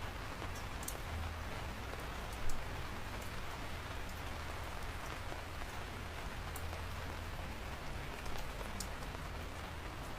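Steady rain falling, with scattered sharp ticks of single drops striking close by. There is one louder thump about two and a half seconds in.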